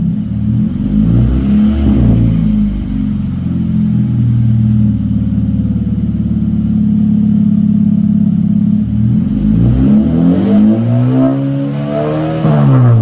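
Exhaust of a 2021 Hyundai Sonata's 2.5-litre naturally aspirated four-cylinder, with the muffler deleted and dual 4-inch tips, being revved while parked. A short blip about a second in, a steady hold, then a longer climb from about nine seconds that drops back right at the end.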